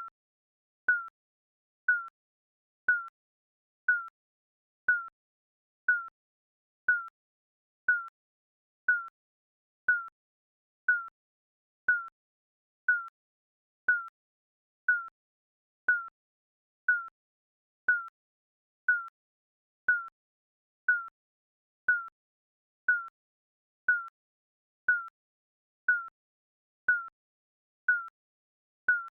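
Digital countdown timer beep: a short electronic tone of one pitch, repeating exactly once a second with silence in between.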